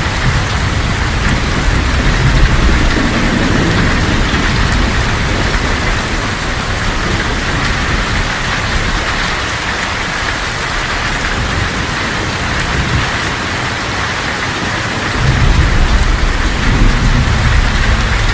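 Heavy tropical downpour drumming on a tin roof, with low rolling thunder rumbling in the first few seconds and again from about fifteen seconds in.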